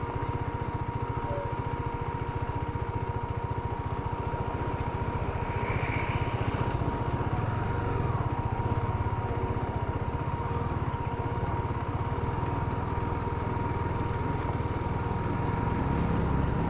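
Motorcycle engine running steadily while riding, a low even rumble that picks up slightly near the end.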